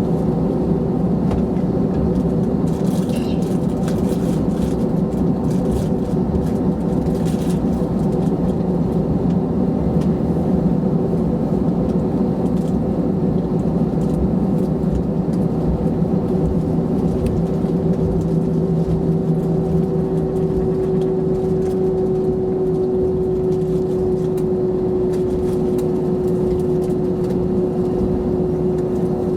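Cabin noise inside an Airbus A321-211, its CFM56 jet engines running with a steady hum and drone; a tone in the hum sinks slightly in pitch in the second half.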